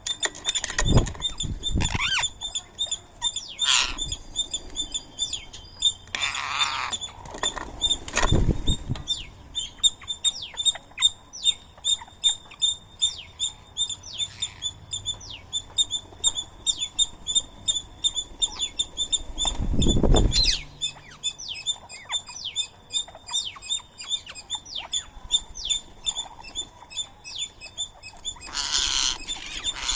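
Birds at a feeding spot chirping in quick short high notes, several a second, with a few louder rustling thumps, likely wing flaps, the loudest about two-thirds of the way through.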